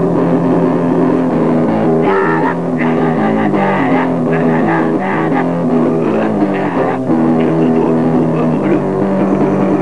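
Guitar-led heavy music from a grindcore band: guitar and bass playing a riff at a steady loud level, with the notes changing faster between about two and seven seconds in.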